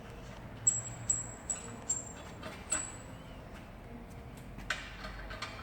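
Five light metallic clinks, about two a second, each ringing briefly at a high pitch, then a few short scraping rustles near the end.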